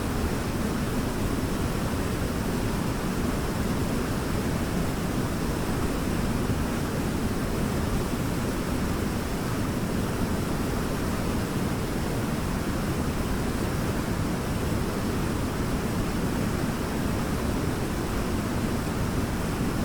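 Waterfall: a steady, deep rush of falling water that holds even and unbroken throughout.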